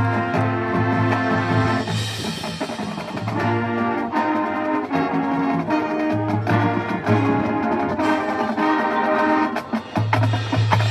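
High school marching band playing: the brass section holds full chords and restrikes them every second or so over low bass notes, with drums underneath.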